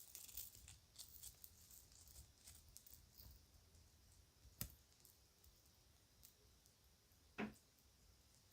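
Faint clicks and light rustling of kids' jewelry being handled over the first few seconds, then a single sharper click about four and a half seconds in and a soft knock near the end.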